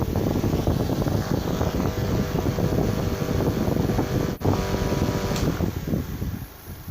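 Homemade bamboo table fan running, a small motor humming under the rush of air from its blades buffeting the microphone; the sound drops away about six and a half seconds in.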